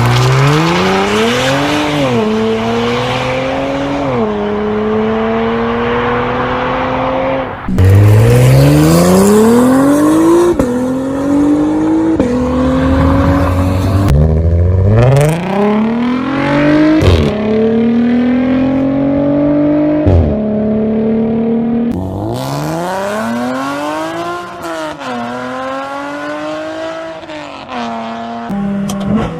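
Six-cylinder sports car engines revving hard through the gears in several short clips. Each is a rising engine note broken by the sudden drop of an upshift, with abrupt cuts between cars. In the last clip the note rises, then falls away.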